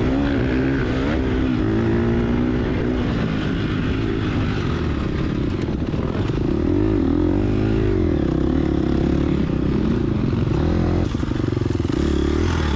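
Gas Gas EX250F four-stroke single-cylinder dirt bike engine running under load, its pitch rising and falling repeatedly with the throttle.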